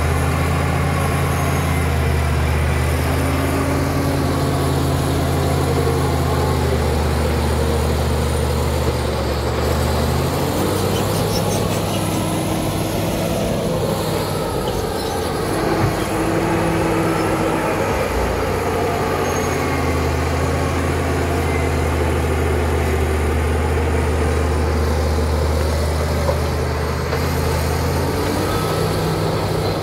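Caterpillar D7 crawler bulldozer working, its diesel engine running steadily under load with the clank of its steel tracks. The engine note shifts about ten seconds in and returns near twenty seconds.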